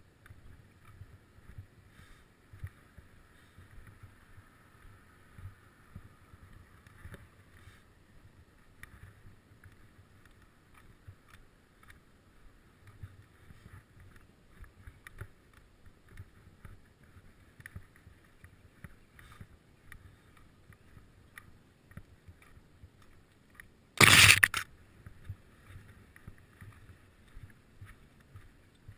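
Faint rattling and clicking of a ride in progress on a bicycle, with one loud, sudden noise about twenty-four seconds in.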